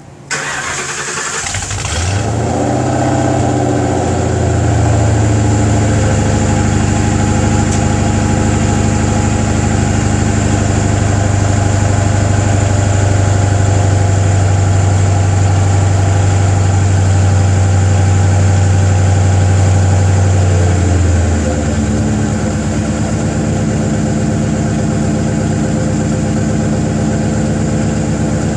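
Supercharged Ford 4.6 L V8 in a 2005 Mercury Grand Marquis, breathing through stock log manifolds and a catless 3-inch Stainless Works exhaust, cranks and starts, then runs at a raised idle. About twenty seconds in, the idle drops to a lower, steady beat.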